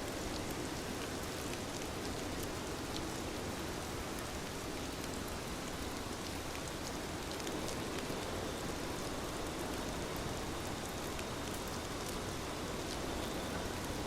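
Steady rain on a window, with scattered sharp ticks of single drops.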